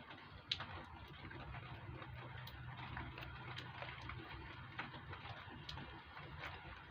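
Faint scratching and small scattered clicks of protective plastic film being picked and peeled off a new motorcycle luggage rack, over a faint low hum that fades about halfway through.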